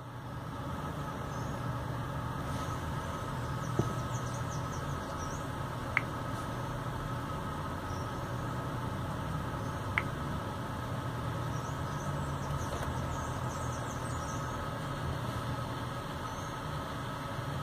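Steady low hum and hiss from a Pioneer MVH-88UB car stereo's speakers on its AUX input with no signal playing, growing louder over the first couple of seconds as the volume is turned up. Three short, sharp clicks at about 4, 6 and 10 seconds in.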